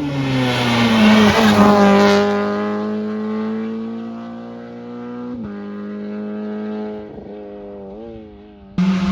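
Rally car engine at full throttle passing close by. It is loudest a second or two in, then its note slowly falls away as it drives off. About five seconds in the pitch steps with a gear change, and there are further short rev changes near the end.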